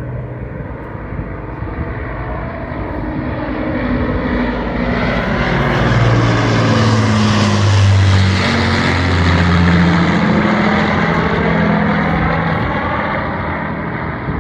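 Avro Lancaster's four Rolls-Royce Merlin V12 engines droning as the bomber flies past: the sound builds to its loudest about halfway through, the engine pitch drops as it passes, and it then fades away.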